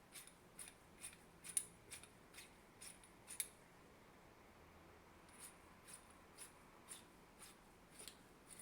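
Faint, sharp little clicks, about two a second, with a pause of nearly two seconds in the middle.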